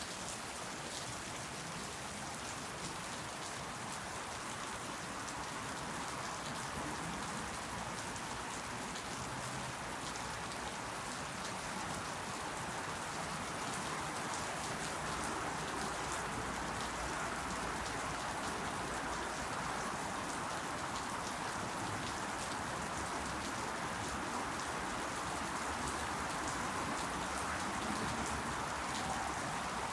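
Steady rain falling on leaves, a dense even patter of drops, growing slightly heavier toward the end.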